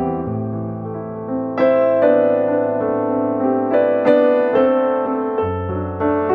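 Background piano music: slow chords with a sustained bass line and notes entering every second or so.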